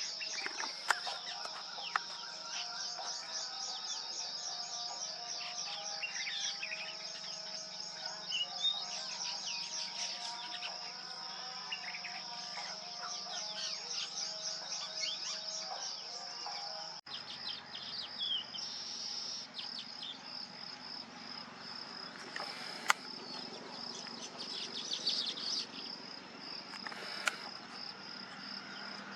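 Wild birds chirping and calling over a steady high-pitched buzz of insects such as cicadas or crickets. The recording cuts to a different clip about two-thirds of the way through, where the buzz goes on with fewer bird calls.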